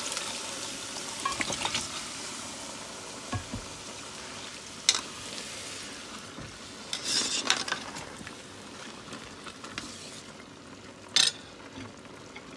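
Hot oil in a pot of fried okra sizzling as meat and broth are poured in, loud at first and settling down over the next several seconds. A metal spoon stirs the sauce and clicks against the pot a few times.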